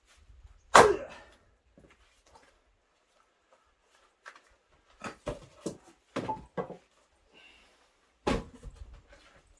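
Axe splitting firewood: a loud chop about a second in and another near the end, with a few lighter wooden knocks between.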